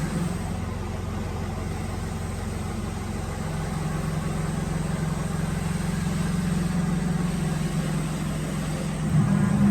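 Woodworking drilling machine running with a steady motor hum. About nine seconds in, the hum steps up in pitch and gets louder.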